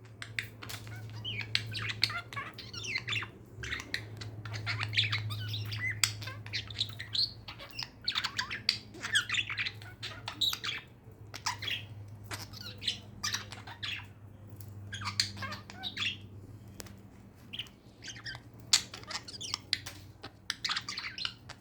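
Budgerigars chattering with rapid chirps, warbles and short squawks, on and off throughout, over a steady low hum.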